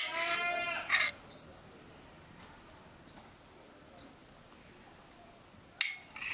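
Birds calling: a louder pitched call lasting under a second at the start, then brief high chirps that fall in pitch, about one, three and four seconds in. A knife clicks sharply against a plate about a second in and twice near the end while slicing boiled eggs.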